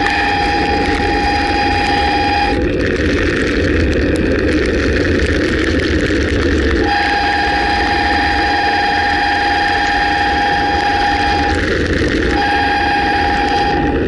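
Bicycle brakes squealing on a downhill ride in the rain: a steady high-pitched squeal comes in three times, the longest for about four and a half seconds. Constant wind and wet-road rushing noise runs throughout.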